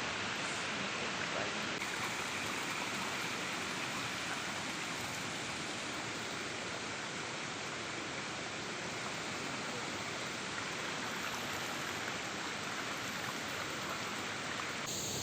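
Steady rush of flowing river water from a waterfall-fed stream, an even hiss with no breaks.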